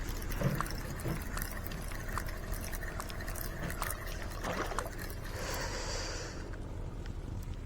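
River water lapping and trickling, with scattered small clicks and a brief hiss about five and a half seconds in.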